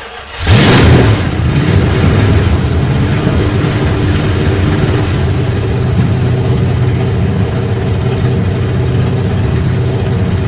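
Old Dodge car engine starting from cold: it cranks briefly, catches about half a second in and flares up loudly, then settles into a steady fast idle.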